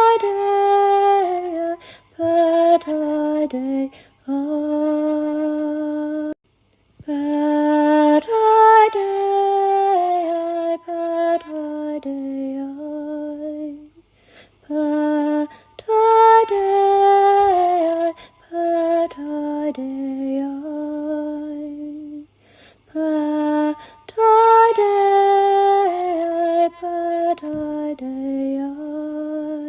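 A woman singing alone, without instruments, in slow phrases of long held notes that slide from one pitch to the next. The phrases repeat about every eight seconds, with brief breaths or pauses between them, the longest just before seven seconds in and again around fourteen seconds.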